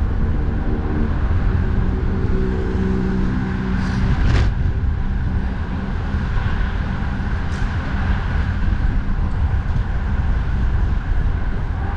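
Steady highway traffic with wind buffeting the microphone. An engine hum from a passing vehicle runs through the first four seconds or so, and a sharp click comes about four and a half seconds in.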